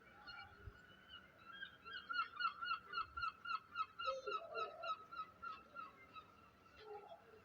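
An animal calling outdoors at night: a rapid series of short, slightly falling calls, about three a second, that starts about a second and a half in and fades out near the end, over a faint steady high drone.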